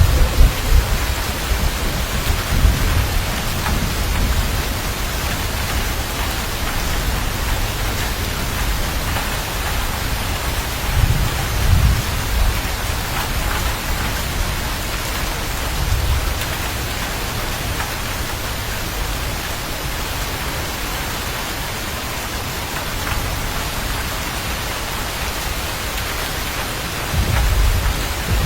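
Steady rain falling, with low rumbles of thunder rolling in at the start, about eleven seconds in, and again near the end.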